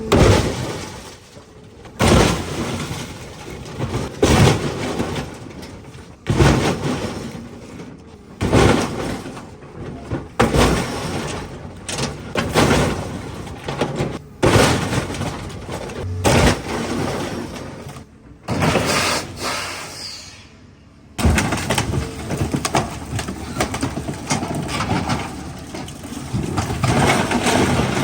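Scrap metal being crunched and torn, as an excavator rips up an old truck. Heavy crunches come about every two seconds, then give way to denser, continuous grinding and scraping near the end.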